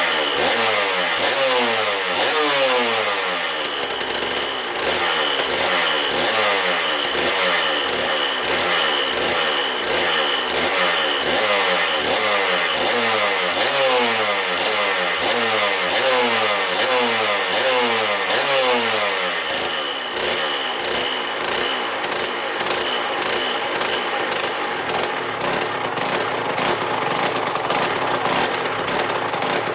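Aprilia RS 125's Rotax 122 two-stroke single running hot after an engine rebuild, blipped over and over, about one rev a second, each rev falling away again. About twenty seconds in it settles to a rough, crackling idle.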